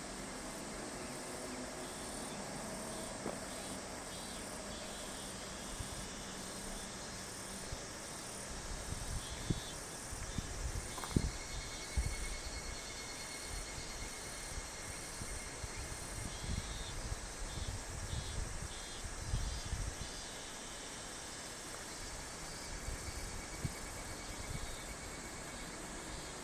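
Insects chirring steadily in summer evening countryside, in repeating pulsed calls. Irregular low rumbles come and go between about eight and twenty seconds in.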